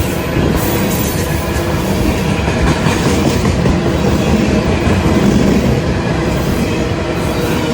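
Train passing at trackside: a steady, loud rumble of wheels rolling over the rails.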